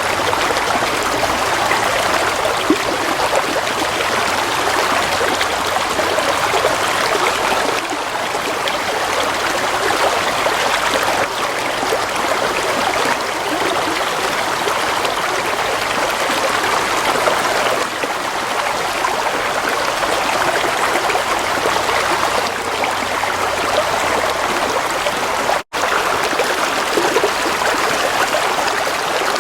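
Gently flowing stream of water, a steady rushing and trickling with one split-second dropout near the end.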